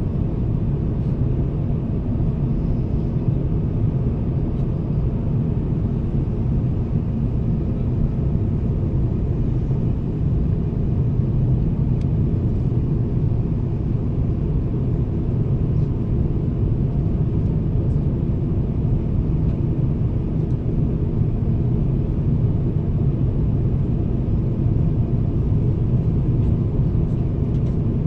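Steady low rumble of an Airbus A350-1000 in flight, heard from inside the passenger cabin: engine and airflow noise.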